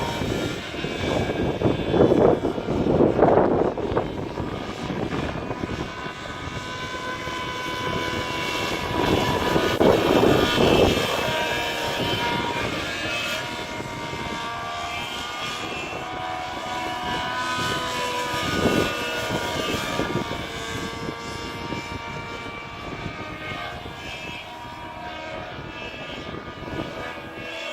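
SAB Heli Division Black Nitro RC helicopter in flight: its nitro engine runs at a high, whining pitch that drifts up and down, with rotor noise. The sound swells louder about two to four seconds in, again around ten seconds, and briefly near nineteen seconds.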